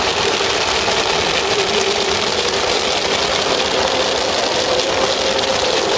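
Fireworks crackling densely and continuously: a steady, rapid sizzling crackle with no single large bang standing out.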